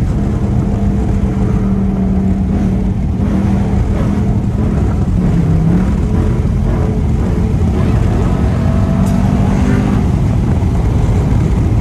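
Straight-piped exhaust of a Dodge Durango SRT's V8 droning steadily under way, with a brief dip in pitch about five seconds in.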